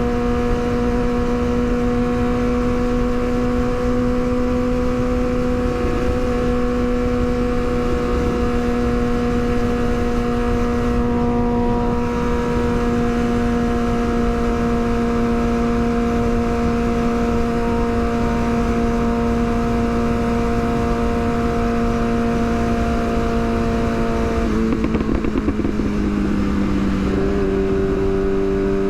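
Yamaha R6 sport bike's inline-four engine running at a steady, high pitch while riding, with the pitch dropping and settling lower near the end.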